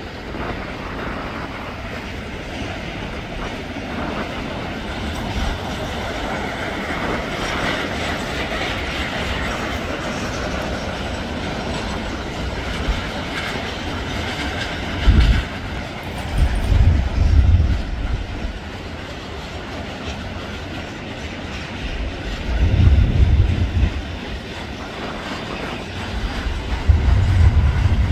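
BNSF freight train rolling past on the rails, a steady rolling noise of cars and wheels. Several bursts of low rumble come in over it in the second half.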